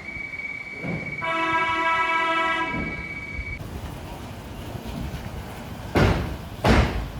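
Cable car's signal tones: a steady high beep lasting about three and a half seconds, with a lower horn-like tone sounding over it for about a second and a half. Near the end come two short, loud bursts of rushing noise.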